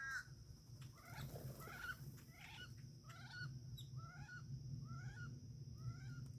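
A bird calling repeatedly: a series of about seven similar calls, evenly spaced a little under a second apart, over a steady high-pitched hiss.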